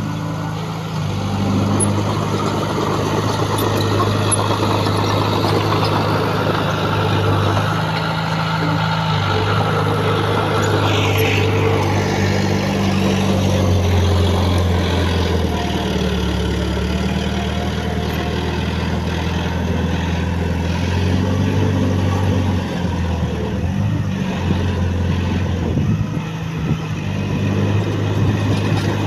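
Diesel engine of heavy earthmoving equipment running steadily, its pitch stepping up and down as the machine works, with a brief higher-pitched sound about eleven seconds in.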